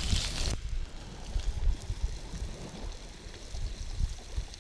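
Scallops frying in a pan, a sizzle that cuts off suddenly about half a second in. After it comes an uneven low rumble of wind on the microphone with a faint hiss.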